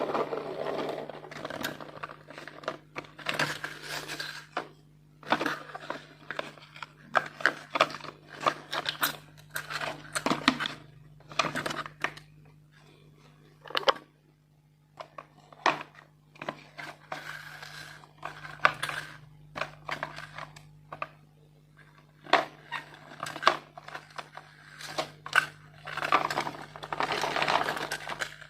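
Marbles clattering along a plastic marble-run track: an irregular string of clicks and knocks, with longer rattling runs near the start and near the end, over a steady low hum.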